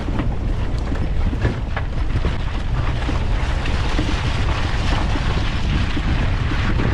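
Toyota 4Runner driving on an off-road trail: a steady rumble of engine and tyres with scattered clicks and knocks, under heavy wind buffeting on the microphone.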